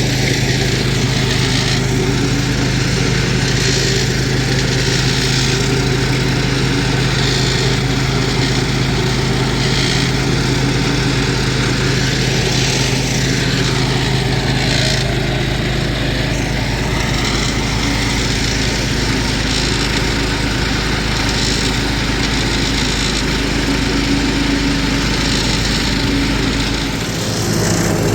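Small engine running steadily at a constant speed, with a brief dip in level near the end.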